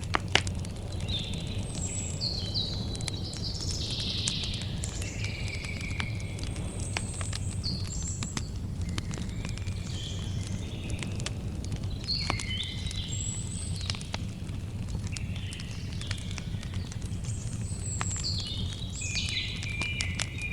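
Campfire crackling, with sharp pops scattered throughout, the loudest just after the start, over a steady low rumble. Birds sing short chirping phrases throughout.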